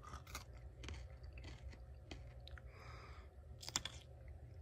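Faint close-up chewing and crunching of a Tootsie Pop lollipop, with scattered small clicks and a couple of sharper clicks near the end.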